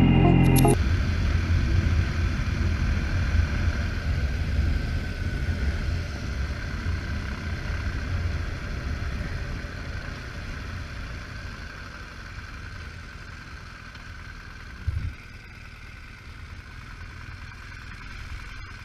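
BMW GS boxer-twin motorcycle engine running with wind noise, getting steadily quieter as the bike slows down and pulls over. There is a short low thump near the end.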